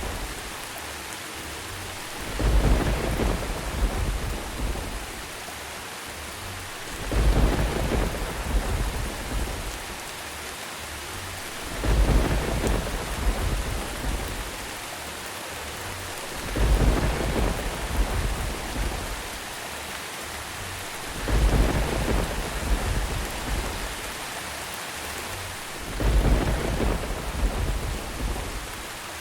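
Steady rain with rolls of thunder. A deep rumble comes about every five seconds, six times in all, each lasting about two seconds over the rain's constant hiss.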